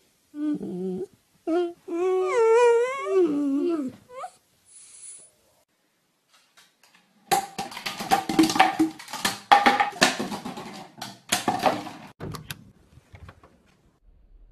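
A dog whining and howling with a wavering pitch for a few seconds. About seven seconds in comes a quick run of knocks and rattles lasting several seconds, which fits plastic bottles being knocked over onto a wooden floor.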